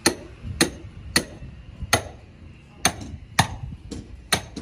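Hammer strikes on a wooden boat hull, about eight sharp blows at an uneven pace, roughly one every half second: hemp caulking being driven into the seams of a wooden fishing boat.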